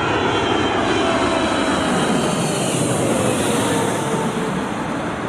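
Aircraft engine noise from a plane flying past, a steady dense rush with a faint whine that slowly falls in pitch as it goes by.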